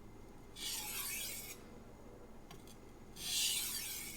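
Steel knife blade drawn edge-leading across a Shapton Glass 500-grit whetstone: two separate strokes, each a hiss of about a second, starting about two and a half seconds apart. These are light microbevel strokes taking off the burr.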